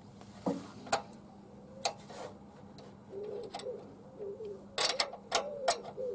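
Irregular metallic clicks and taps of a spanner working the rocker-arm adjuster lock nuts on a VW air-cooled 1600 CT engine, slackening them to reset the hydraulic tappets. There is a cluster of clicks near the end.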